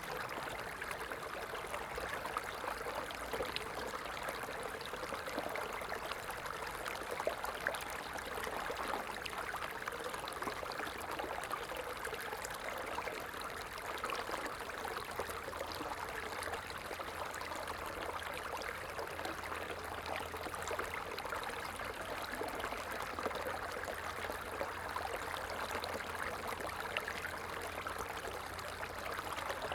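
A small stream running and trickling steadily over stones, a continuous babble of water.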